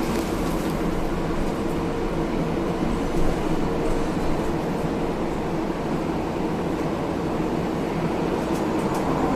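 Hiroden 1000 series 'Green Mover LEX' low-floor tram with a Toyo IGBT inverter drive, running steadily between stops, heard inside the car: a constant wheel-and-motor running noise with faint steady tones.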